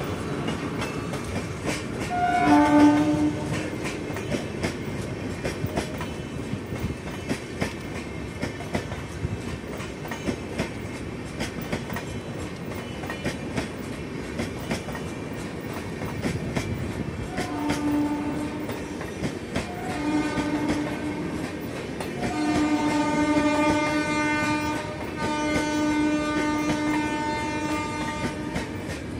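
Humsafar express train running past with a steady clickety-clack of wheels over rail joints and points. A train horn sounds briefly about two seconds in, then four more times from about 17 seconds on, the last two blasts longer.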